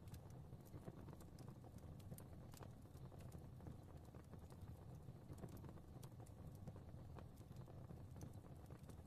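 Faint wood fire crackling, with irregular small pops and snaps over a soft low rumble of the flames.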